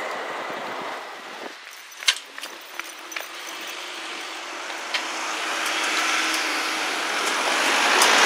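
A Class 175 diesel train fades away, followed by a few sharp clicks and a low steady hum. Then road traffic noise rises steadily as vehicles start moving over the crossing.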